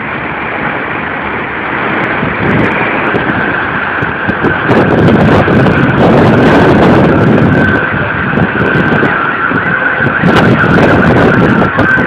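Storm wind rushing and buffeting the microphone, growing stronger about five seconds in, with crackles. A steady high-pitched tone sounds through it from about then on.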